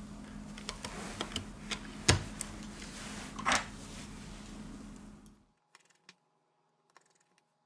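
Small clicks and taps of a smartphone being handled and put back together, with a sharp click about two seconds in and a brief scrape about three and a half seconds in. A low background hum cuts off suddenly after about five and a half seconds, leaving a few faint clicks.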